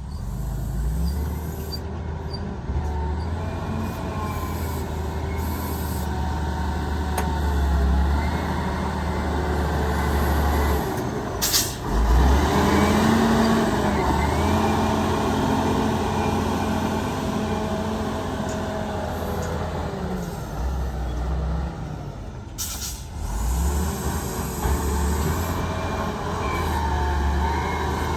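Heavy diesel earthmoving machinery at work, an excavator and dump trucks, engines running and rising and falling in pitch with load. Two short sharp noises come about 11 seconds in and again near 23 seconds.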